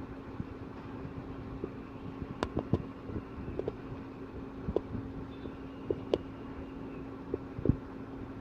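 A steady mechanical hum with one low held tone, broken by scattered sharp clicks and knocks, several in a cluster near the middle and the loudest near the end.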